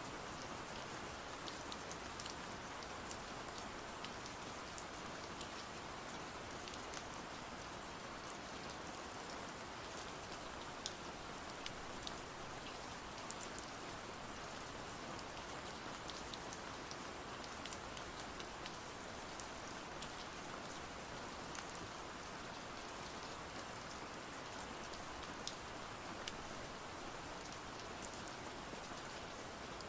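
Steady rain, an even hiss with many scattered sharp ticks and pops throughout.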